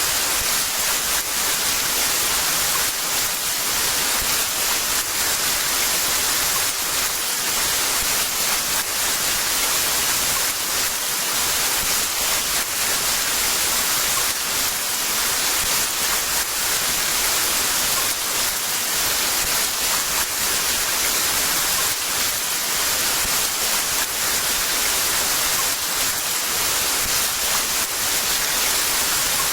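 Heavy rain falling as a steady, dense hiss, even in level throughout.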